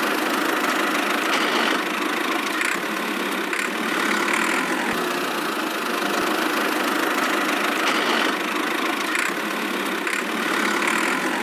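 A small motor of a DIY miniature machine running steadily, a continuous mechanical drone that does not pause.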